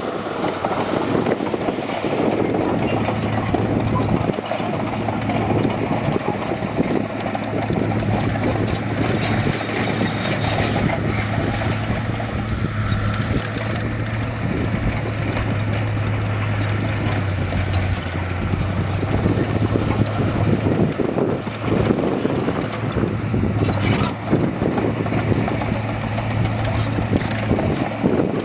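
Heavy diesel earthmoving machinery running steadily, its engine holding an even low note, with continuous clanking and rattling over it and a sharp knock near the end.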